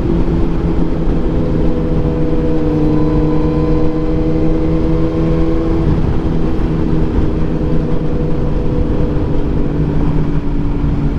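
Sportbike engine running at a steady highway cruise, its pitch nearly constant, under heavy rushing wind noise.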